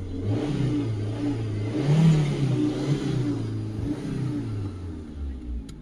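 Chevrolet Spark's petrol engine running just after starting, with its freshly repaired fuel line. It is revved up and back down a few times, most strongly about two seconds in.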